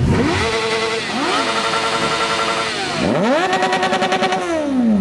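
Sport motorcycle engine revved three times, each rev climbing fast, held high for a moment, then dropping; the last and longest falls away near the end.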